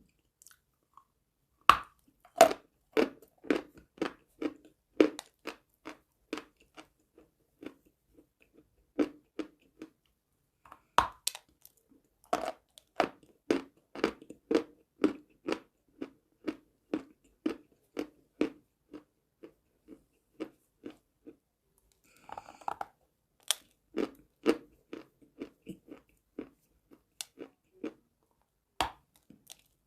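A person biting and chewing crunchy chalk: a few sharp crunching bites, each followed by steady rhythmic chewing at about two chews a second.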